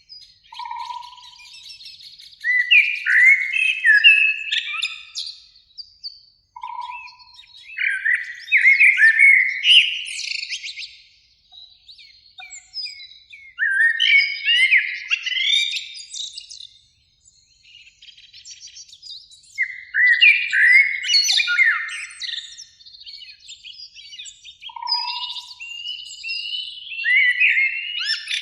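Eurasian blackbird singing. It gives separate song phrases of two to three seconds each, about every five to six seconds, with fainter bird song between them.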